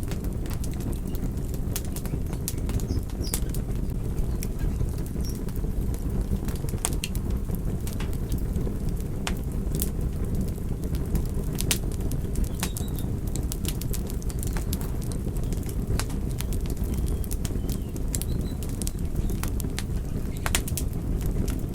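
Wood fire burning: a steady low noise of the flames with frequent, irregular sharp crackles and pops from the burning wood.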